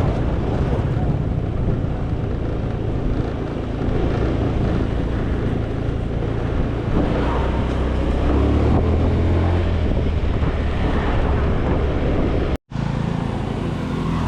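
Small rented motor scooter running while being ridden, with wind rushing over the microphone; the rumble grows heavier for a few seconds past the middle and drops out for a moment near the end.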